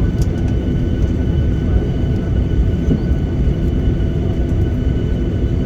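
Cabin noise inside a Boeing 737-800 rolling along the runway after landing: a steady low rumble from the wheels and engines, with a few faint steady whine tones above it.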